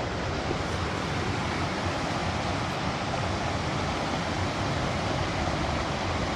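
Creek water rushing over rocks, a steady even noise with no breaks.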